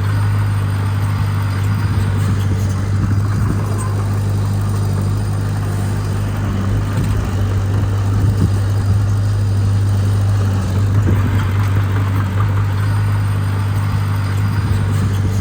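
Diesel engine of an earthmoving machine running at a steady speed, holding one low pitch throughout.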